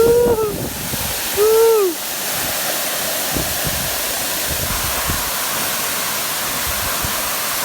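Waterfall pouring, a steady rush of falling water. In the first two seconds a person gives two short calls that rise and fall in pitch.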